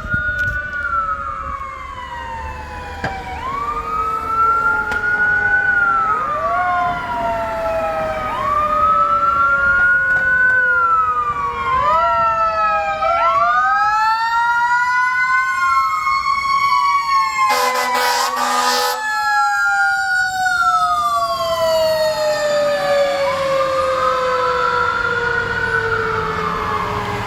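Fire apparatus sirens wailing, two or more overlapping. Each sweeps up quickly and falls slowly over a few seconds. A short air-horn blast sounds about two-thirds of the way through.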